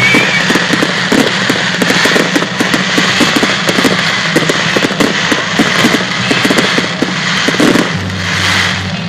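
Fireworks going off in a rapid, dense series of bangs and crackles, with a short whistle at the start and a hissing burst near the end.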